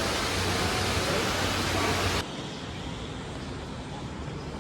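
Steady rushing noise that cuts off abruptly about two seconds in, giving way to a quieter, duller steady background hiss.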